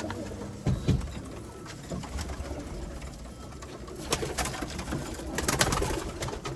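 A coop of cumulet pigeons cooing. There are a couple of low thumps about a second in, and brief flurries of sharp clatter about four and five and a half seconds in.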